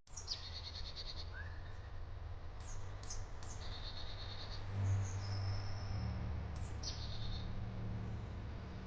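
Small birds calling in repeated short phrases, each a quick falling note followed by a rapid high trill, with one held whistle near the middle. A steady low hum runs underneath.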